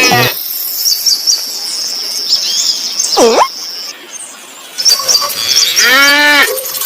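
Farmyard ambience: small birds chirping over a steady high-pitched tone, then a cow mooing briefly near the end.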